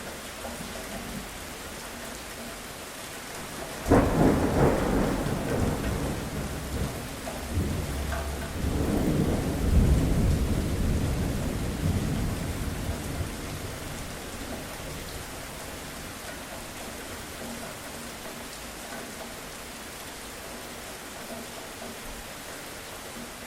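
Steady rain falling, with a sudden thunderclap about four seconds in. The thunder rolls on and swells again near ten seconds, then dies away over several seconds, leaving the rain.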